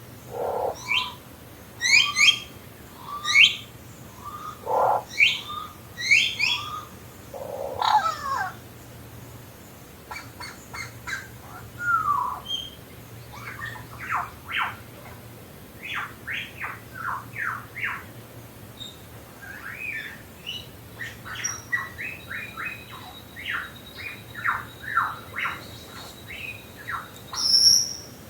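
Birds calling in forest: loud squawky calls over the first several seconds, then a long run of quick, downward-sweeping whistled notes.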